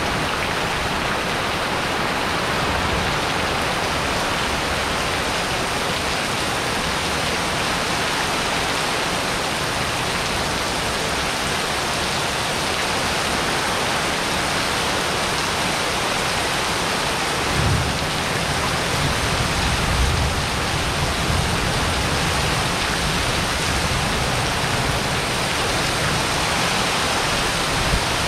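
Heavy rain falling steadily on a paved patio and streaming off the roof edge, with a low rumble of thunder about two-thirds of the way through.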